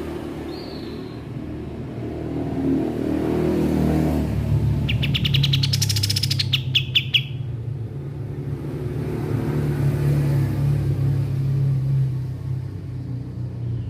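A kapas tembak songbird gives one rapid, buzzy trill of fast repeated notes about five seconds in, with a short high note near the start. A steady low rumble like a running engine sounds underneath and is louder than the bird for much of the time.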